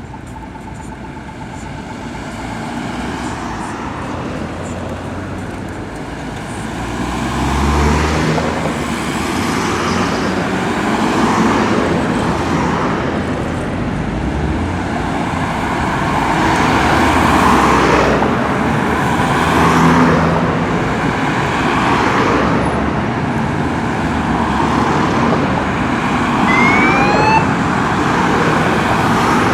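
Many motorcycles riding past one after another, their engines swelling as each goes by and growing louder over the first few seconds. Near the end there is a short rising whine.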